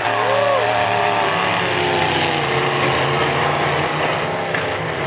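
Several demolition-derby trucks' engines running and revving together in a steady drone, with a rising and falling pitch glide near the start.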